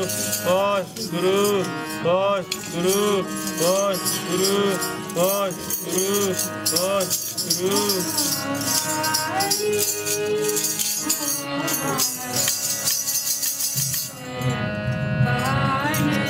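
Sikh kirtan music: a singing voice repeating arched, ornamented phrases over steady held tones, with a jingling rattle; the music changes character about fourteen seconds in.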